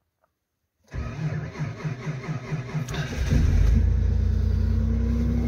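Hyundai Santa Fe Classic's V6 engine cold-started with the key at −32 °C: the starter cranks with a rhythmic pulsing for about two seconds, the engine catches about three seconds in and then runs steadily. It starts readily despite the deep frost.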